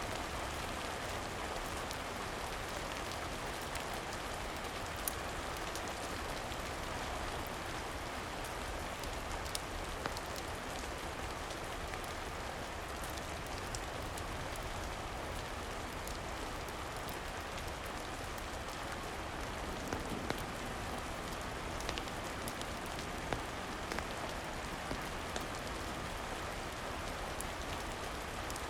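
Steady rain falling, an even hiss of drops, with scattered sharp ticks and pops through it.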